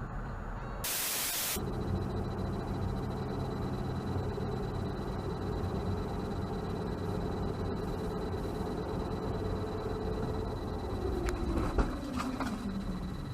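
Steady road and engine noise from a moving vehicle, heard through a dashcam. About a second in there is a short burst of hiss. Near the end the engine note falls as the vehicle slows, and there is a sharp knock and a few clicks.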